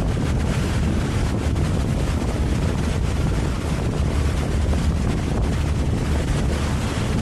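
A motorboat under way: its engine runs with a steady low drone while wind buffets the microphone.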